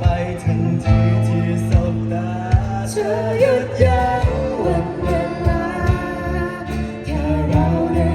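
A band playing a song: a sung melody over bass notes and a steady drum beat.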